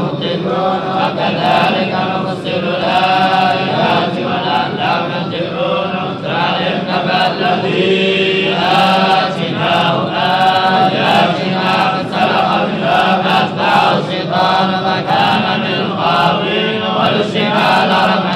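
Several men's voices chanting Quranic verses together in a continuous, unbroken chant.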